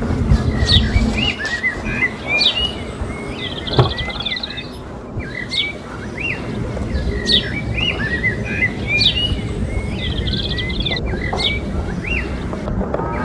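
Birds chirping, the same short phrase of sweeping chirps repeating every couple of seconds over a rough low rumble, with a single knock about four seconds in.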